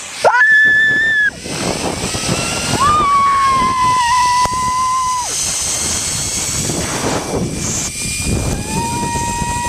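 Zip-wire trolley running fast down the cable, with a steady rushing noise of air over the microphone. About half a second in, a high-pitched scream rises and holds for about a second. Long, steady high whining tones come and go later.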